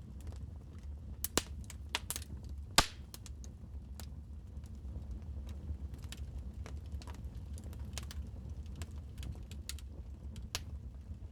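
Wood fire crackling in a fireplace: irregular sharp pops and snaps over a steady low rumble, with a few louder pops in the first three seconds, the loudest about three seconds in.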